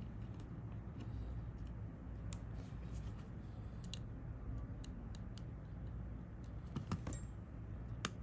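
Light, scattered clicks and taps of small hand tools and parts being handled during smartphone repair, over a steady low hum. A few sharper clicks come about seven seconds in and again near the end.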